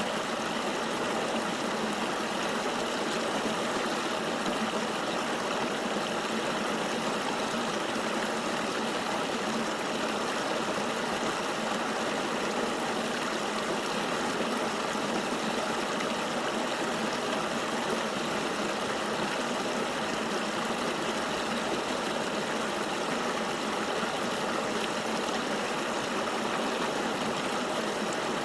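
Steady rushing of a flowing river, an even wash of water noise with no low rumble.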